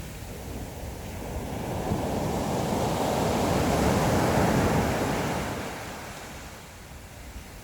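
Sea waves washing onto the shore: one wave builds about a second in, is loudest near the middle and fades away, with a low wind rumble on the microphone.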